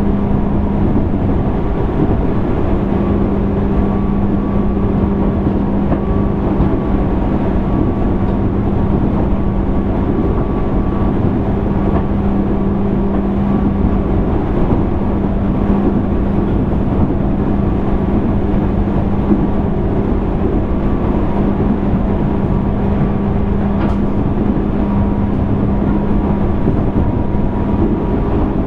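Running sound inside a JR East 205 series 600 subseries electric train's motor car: steady hum from the traction motors and gearing over wheel-on-rail rumble, the train holding a constant speed.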